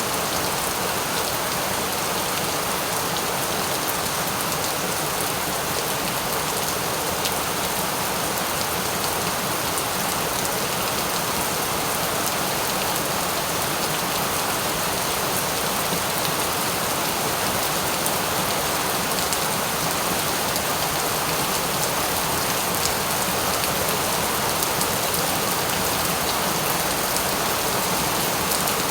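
Steady rain falling, an even hiss of many drops with faint scattered taps, unchanging throughout.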